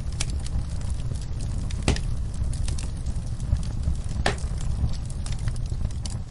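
Wood fire crackling in a fireplace: a steady low rumble under scattered sharp pops, the loudest about two seconds in and just after four seconds.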